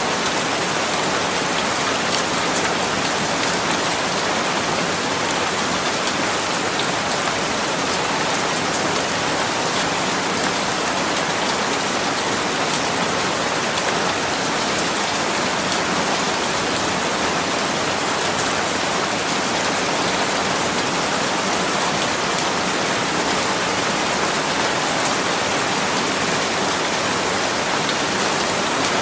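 Steady rain falling, a constant hiss with faint scattered drop ticks and no change in strength.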